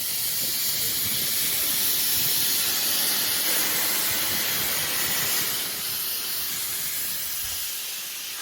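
Steam locomotive releasing steam: a loud, steady hiss that eases slightly in the second half.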